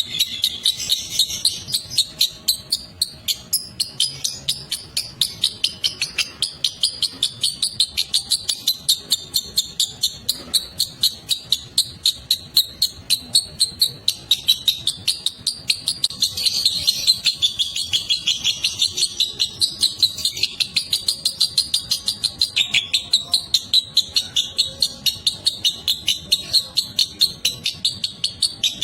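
Lovebird singing a long unbroken 'ngekek' chatter: rapid high-pitched chirps, about four to five a second, kept up without a pause.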